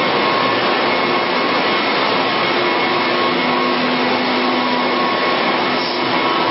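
Steady background noise of running shop machinery: an even, unbroken rush with faint steady hum tones, no change through the stretch.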